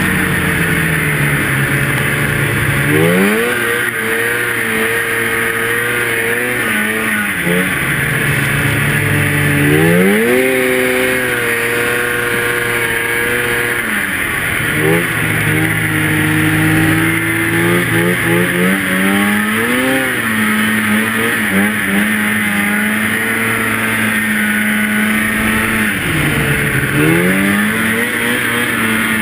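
Two-stroke snowmobile engine running hard through deep powder. Its pitch climbs and drops repeatedly as the throttle is opened and backed off, with rises about three, ten, twenty and twenty-seven seconds in.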